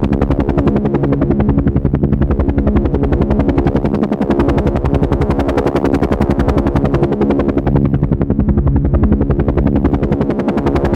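Helicopter rotor blades chopping in a fast, even beat, over a steady engine hum.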